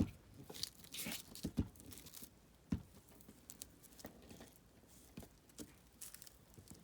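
A glue stick being rubbed across the back of a scrap of paper, with paper rustling as it is handled. A few short knocks, the loudest right at the start, another pair about one and a half seconds in and one just under three seconds in.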